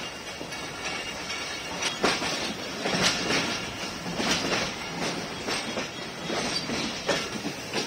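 Passenger coach rolling along the track, heard from an open carriage door: a steady rumble of wheels on rail with sharp, irregular clacks as the wheels cross rail joints.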